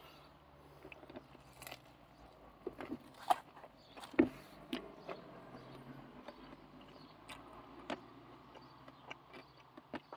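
Faint biting and chewing of a piece of southern fried chicken, with a few scattered crunches and clicks, over a low steady hum.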